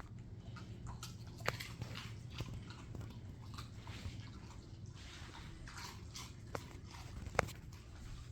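Dogs chewing and crunching treats: irregular crisp crunches with a couple of sharp cracks, over a steady low hum.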